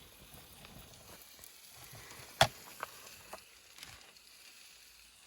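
Faint steady sizzling of food in a cast iron skillet, with one sharp clack about two and a half seconds in and a couple of lighter clicks just after.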